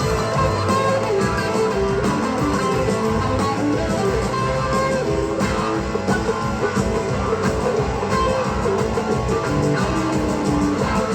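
Live rock band playing an instrumental passage, with electric guitar to the fore over bass and a steady drum beat.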